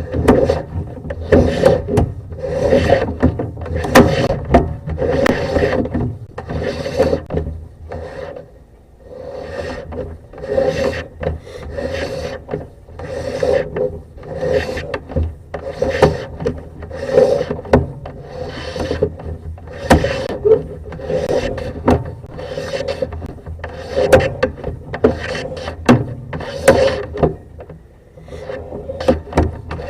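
Sewer camera push cable rubbing and scraping through a plumbing cleanout in a steady run of strokes, about three every two seconds, with a short pause partway through and another near the end.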